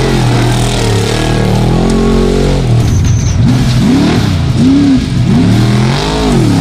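Trophy truck engine revving hard. Its pitch climbs steadily at first, then it is blipped up and down over and over in quick swells, over a steady low drone.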